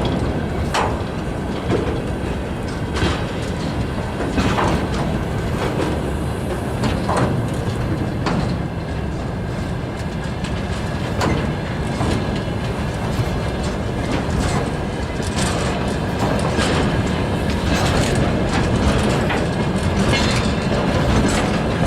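Freight wagons of a transfer freight train rolling past, their wheels knocking over the rail joints in an irregular clickety-clack over a steady rumble.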